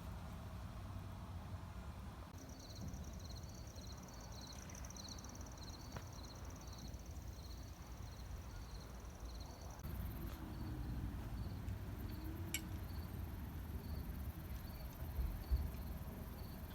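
Crickets chirping: a steady high trill with short chirps repeating about two or three times a second, starting about two seconds in, over a low rumble.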